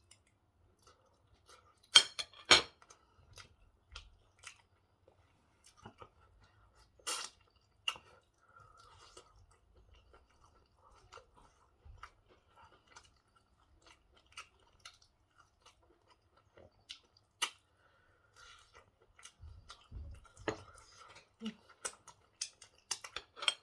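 Close-up chewing and mouth sounds of a person eating pork stew and white rice, with scattered sharp clicks, loudest about two seconds in and again about seven seconds in, and a busier run of clicks near the end.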